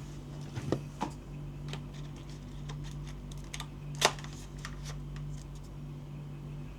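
Scattered light clicks and taps of a plastic gel blaster and its packaging being handled, with one sharp click about four seconds in, over a low steady hum.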